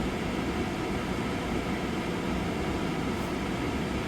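Steady low rumble of a vehicle idling at a standstill, with an even fan-like hiss over it, heard from inside the cab.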